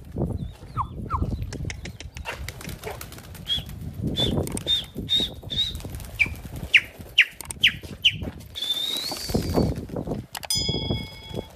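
Pigeons' wings flapping in repeated bursts, with a run of quick, high chirps from small birds in the middle.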